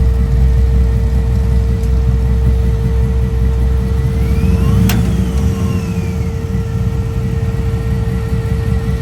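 Car engine running with a steady deep low note that eases off a little about halfway through, with a single sharp click about five seconds in.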